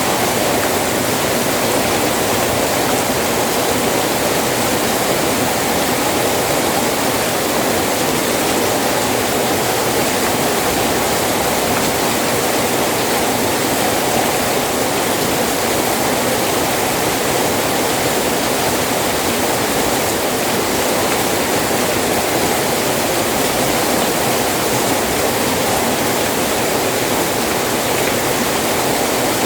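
Heavy rain falling steadily, an even rushing hiss that neither swells nor breaks.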